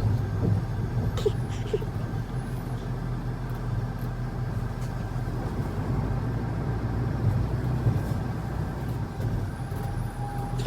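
A motor vehicle's engine running steadily, a continuous low drone with road or engine noise.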